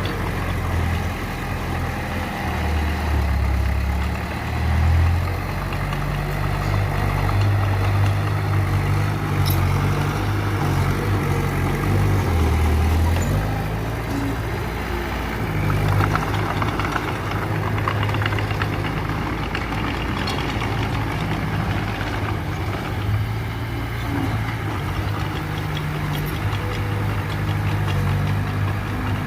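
Mitsubishi BD2F bulldozer's diesel engine running steadily while working, its low note dropping a few seconds in and again around halfway before settling back.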